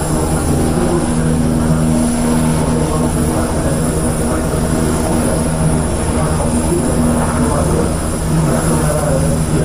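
Aircraft engine noise, loud and steady, a hum of several held low tones over an even rushing hiss.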